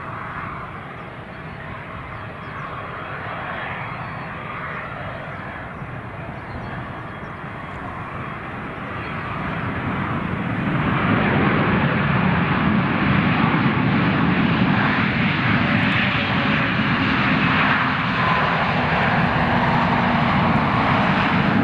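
Jet airliner engines running, growing louder about ten seconds in and then holding at a steady loud rush.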